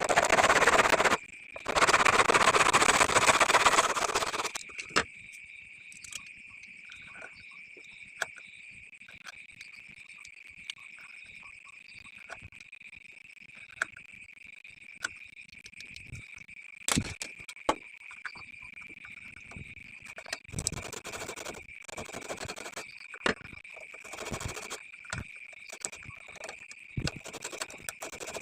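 Bamboo being worked by hand: two loud stretches of rasping noise in the first four seconds, then scattered taps and clicks with further short stretches of rasping later on. A steady high tone runs underneath throughout.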